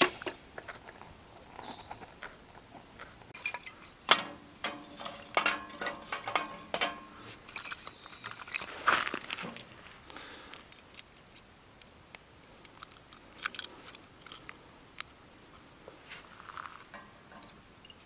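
Metal utensils clinking, tapping and scraping against camp cookware, in irregular bursts with a short metallic ring after some strikes, busiest about four to seven seconds in.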